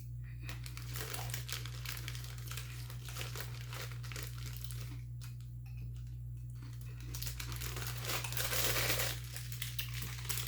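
Popcorn bag crinkling and rustling as it is handled and reached into, with a louder stretch of crackling from about seven seconds in that lasts around two seconds.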